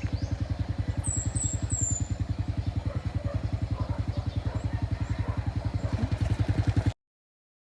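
Small engine running at a steady idle, an even rapid putter of roughly a dozen beats a second, that stops abruptly near the end. A bird chirps three times about a second in.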